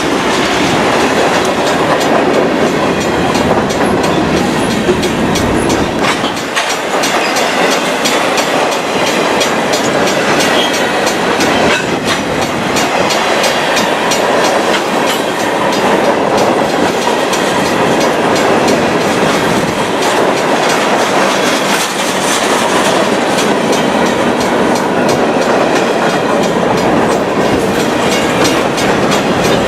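Freight cars of a local freight train rolling past, their steel wheels clacking rhythmically over the rail joints, with a steady rumble.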